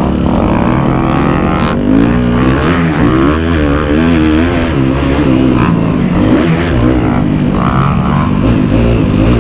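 Kawasaki KX250F dirt bike's four-stroke single-cylinder engine under hard throttle on a motocross track, its pitch rising and falling again and again as the rider accelerates, shifts and backs off through corners.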